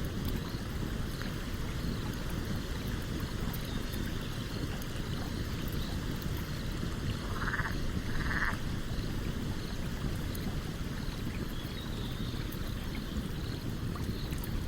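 Campfire crackling with scattered small pops over the steady rush of a stream. Two short rasping calls come a little after halfway through.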